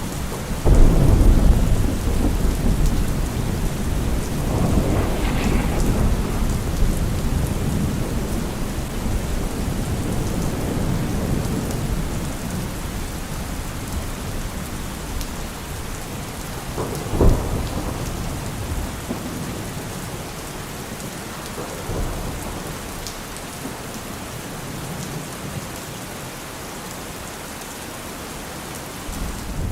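Steady rain during a thunderstorm. A loud thunder rumble breaks about a second in and rolls on, fading over several seconds; a sharper thunderclap comes a little past halfway, and a fainter one a few seconds after that.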